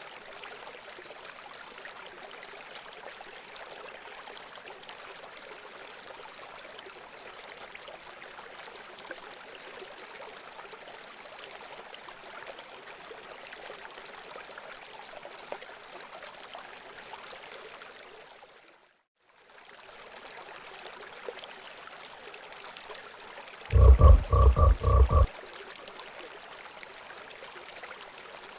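Steady rush of running water. It drops out briefly about two-thirds of the way through. Near the end comes a loud, low pulsed call of about six quick pulses over a second and a half.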